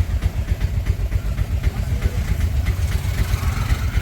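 A vehicle's engine running steadily with a fast pulsing low rumble.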